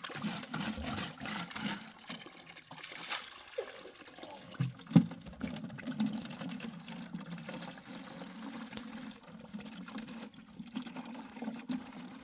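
Water running and trickling unevenly, with a few sharp knocks, the loudest about five seconds in.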